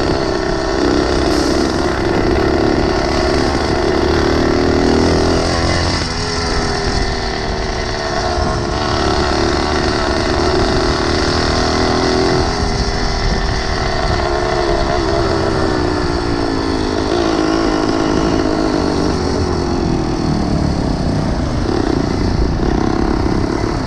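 Small engine of a motorized bicycle running under way, its engine speed rising and falling several times with the throttle.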